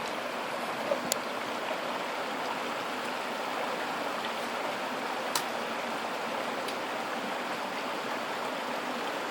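Creek water rushing steadily over rocks. Three brief sharp clicks stand out, two about a second in and one about five seconds in.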